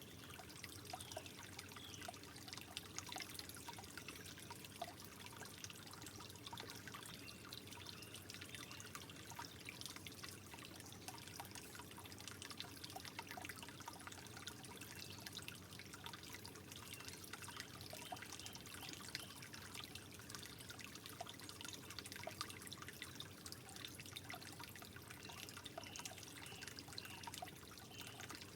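Water trickling gently and steadily, with many small drips and droplet plinks scattered through it.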